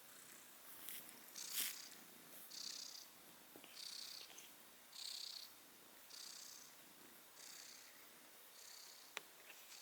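Domestic cat purring faintly at close range, heard as a soft hissing pulse with each breath about once a second, with a sharp tick about a second and a half in and another near the end.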